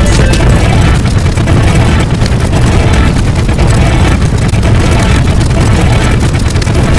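A loud, dense wall of layered sound effects with a heavy, steady rumble and no clear tune.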